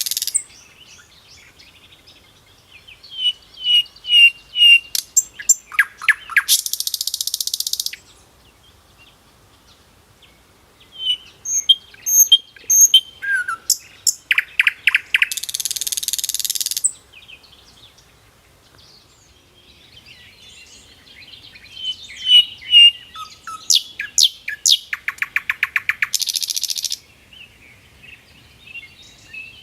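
A songbird singing the same phrase three times, about nine seconds apart: a few high chirps, a fast trill, then a harsh buzzy note about a second long. Softer chirping fills the gaps between phrases.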